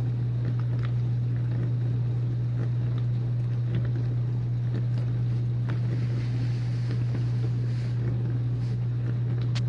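Whirlpool dishwasher running its pre-rinse: a steady low hum from the wash pump with an even wash of water spraying inside, and a few faint ticks.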